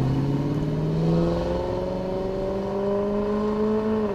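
Maserati Quattroporte's 4.2-litre Ferrari-built V8 pulling away and accelerating, its note rising steadily.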